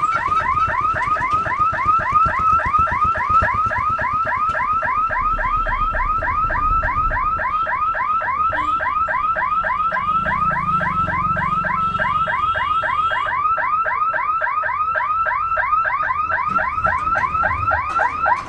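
Electronic warning siren at a railway level crossing sounding a fast, repeating rising chirp, about five chirps a second, that stops abruptly near the end. A low rumble runs underneath at times.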